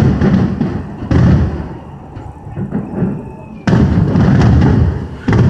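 Aerial fireworks bursting: four sudden loud booms, one at the start, one about a second in, one near four seconds and one near the end. Each is followed by a dense low rumble and crackle that fades over a second or so.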